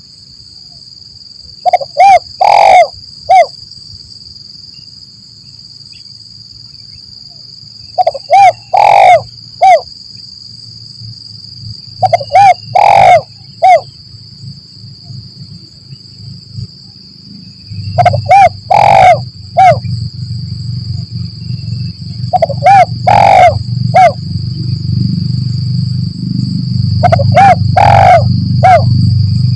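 Spotted dove (tekukur) cooing: six phrases of three or four short coos each, repeated every few seconds. A steady high-pitched tone runs underneath, and a low rumble grows louder about two-thirds of the way through.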